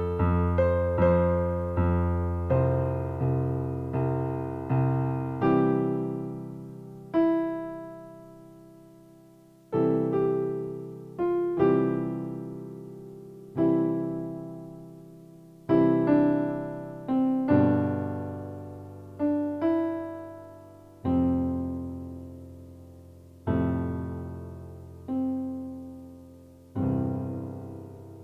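Slow solo piano music: chords struck and left to ring out, a few quick notes in the first seconds, then about one chord every two seconds.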